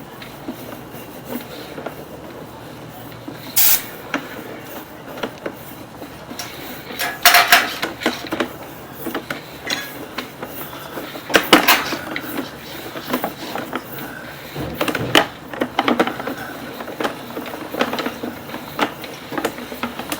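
Irregular metallic clanks, knocks and rattles as a sewer inspection camera's push cable is fed down a 6-inch cleanout, with a few louder knocks spread through.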